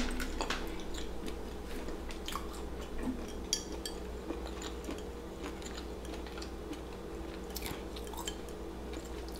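Close-miked chewing of battered deep-fried seafood: soft mouth sounds and scattered small clicks over a faint steady hum, with one sharper click at the start.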